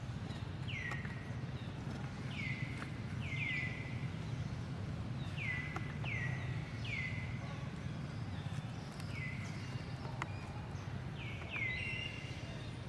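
A small animal's repeated high-pitched chirping calls, each short and falling in pitch, often two or three in quick succession, over a steady low hum.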